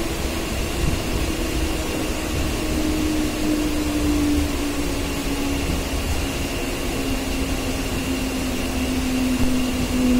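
Mumbai suburban electric local train running, heard from inside the coach: a steady rumble and rail noise under an electric motor whine that slowly falls in pitch as the train slows.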